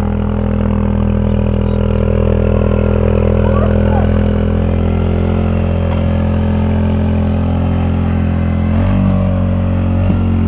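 A Kawasaki KLX110's single-cylinder four-stroke engine running steadily at idle, its note shifting slightly about nine seconds in.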